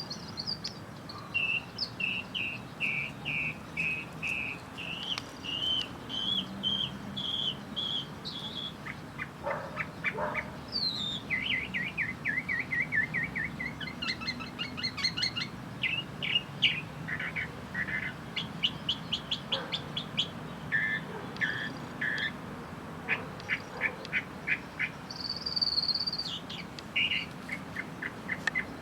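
Small birds chirping and calling in quick series of short high notes and trills, several voices overlapping.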